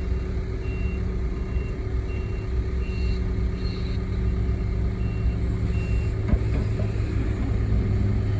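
A heavy machine's reversing alarm beeps in an even series, about one beep every two-thirds of a second, over a diesel engine running steadily. The beeps stop about six seconds in, and a single knock follows soon after.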